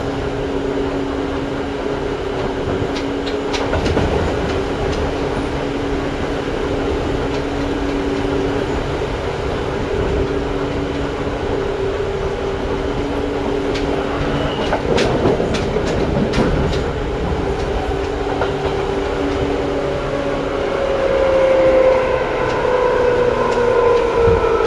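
Seibu 2000 series electric train running, heard from inside the car: a steady hum of the running gear with the wheels clicking over rail joints now and then. Near the end the traction motors start a whine that falls in pitch as the train brakes.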